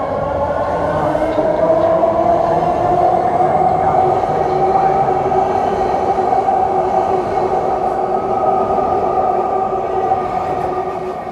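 BART Fleet of the Future train pulling out of the station. Its electric traction motors whine in several tones that rise over the first few seconds and then hold steady, over the loud rumble of wheels on rail.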